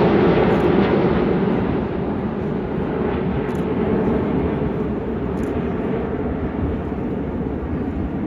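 Airplane flying past at an air show, loudest at the start and easing after a couple of seconds into a steady, lower engine noise as it moves away.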